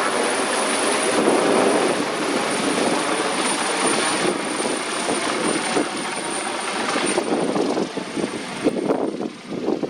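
Emergency helicopter's rotor and turbine noise, steady with a thin high whine on top, fading over the last few seconds. Gusts of wind buffet the microphone near the end.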